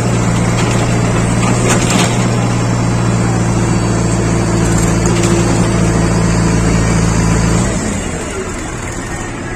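Engine of a working machine, a backhoe loader or tractor, running at a steady speed with a constant low hum, then its hum drops away about three-quarters of the way through. Two sharp clanks about two seconds in.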